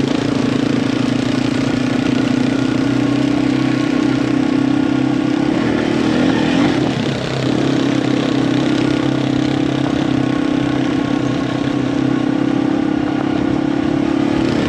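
Yamaha TW200 single-cylinder four-stroke engine running steadily on the move, with a brief dip in pitch and level about halfway through before it settles back.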